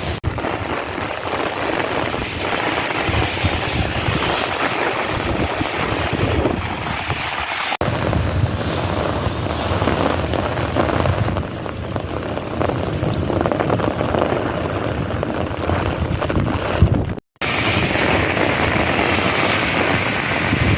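Heavy desert monsoon rain pouring down as a steady hiss, with wind buffeting the microphone. The sound cuts out briefly about three-quarters of the way through.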